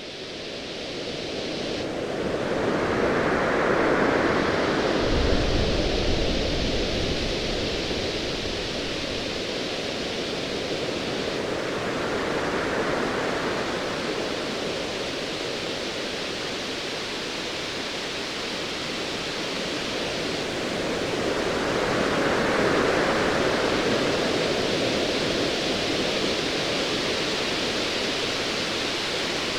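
Ocean waves surging and washing in slow swells, with a low rumble of distant thunder about five seconds in. The sound fades in at the start.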